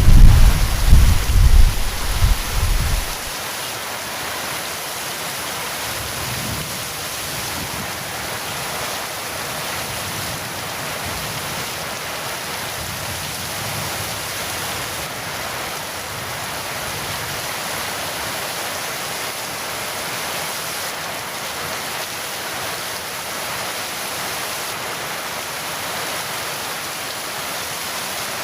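Heavy rain falling in a steady, even hiss. A low thunder rumble runs through the first three seconds and cuts off suddenly.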